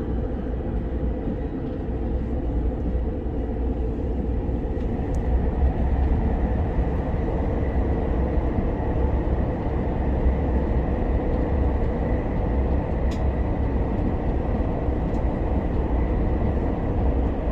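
Cabin noise of an SRT high-speed train (SR 120000-series electric multiple unit) running at speed: a steady low rumble with a faint steady whine over it.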